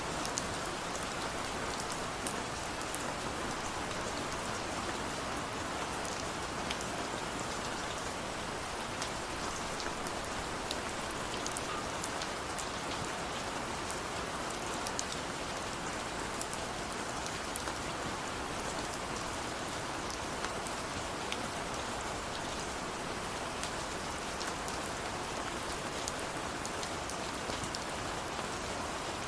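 Steady rain falling, with individual drops ticking on hard surfaces over an even hiss.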